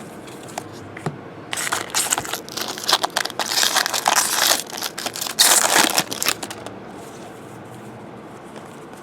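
Foil trading-card pack wrapper crinkling and tearing as it is ripped open and handled, in a run of crackly bursts lasting a few seconds, loudest about five and a half seconds in.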